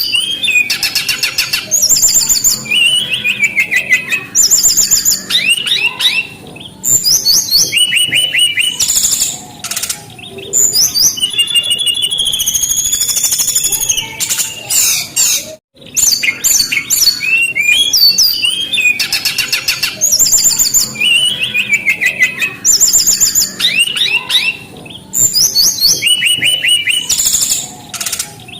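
Brown-chested jungle flycatcher singing continuously: fast phrases of high whistled notes, rising and falling slurs and rapid trills, with one brief gap about halfway through.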